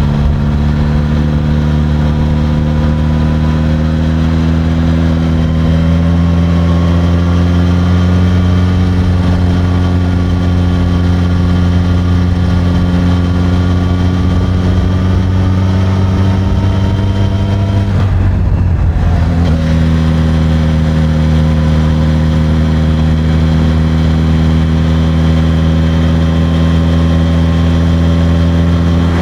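Suzuki GSX-S1000's inline-four engine through its stock exhaust, running under a steady pull with its note rising slowly. About eighteen seconds in the note breaks off briefly, then carries on steady and again rises slowly.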